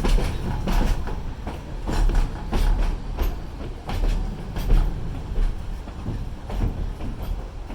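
Passenger train car running along the track: a steady low rumble with irregular knocks and clanks from the wheels and carriage.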